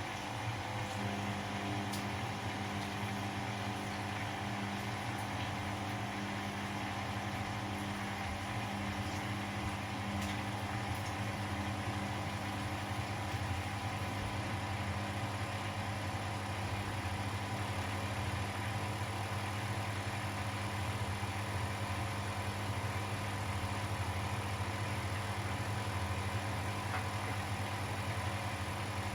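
Household laundry machines running: a steady motor hum, with a further steady tone joining about a second in.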